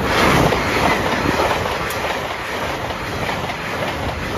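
LNER Azuma express passenger train passing at speed close to the level crossing. It is a loud, steady rush of wheel and air noise that comes in abruptly at the start.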